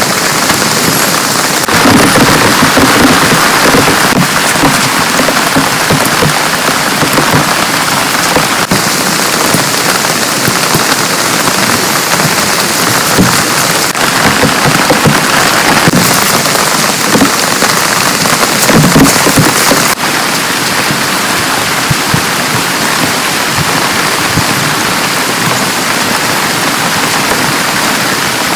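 Heavy rain pouring steadily, with a couple of louder spells.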